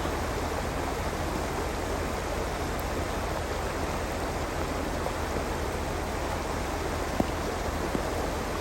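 Rain falling in a steady, even rush, with a couple of faint ticks near the end.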